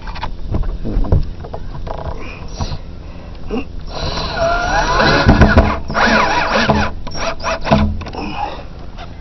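Cordless drill driving screws through a plywood boat side panel: sharp knocks and handling at first, then about four seconds in a loud stretch of motor whine that bends up and down in pitch as the screws bite, with more knocks near the end.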